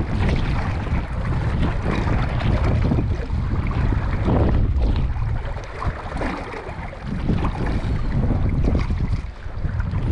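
Strong wind buffeting the microphone in gusts, a loud rumbling noise that dips briefly a few times.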